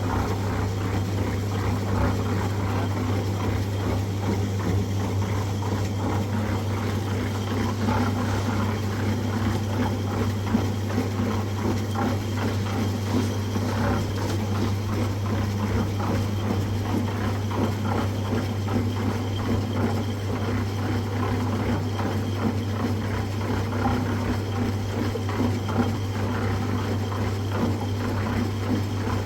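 A machine running steadily, with a constant low hum under a fast, dense rattling and clicking.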